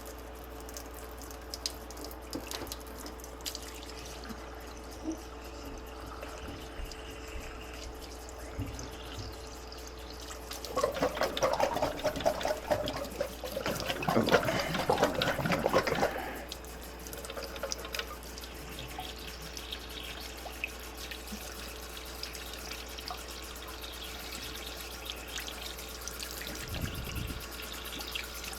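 Tap water running into a sink while a furnace part is rinsed clean under it, loudest between about 11 and 16 seconds in, with small clicks and handling noise before and after.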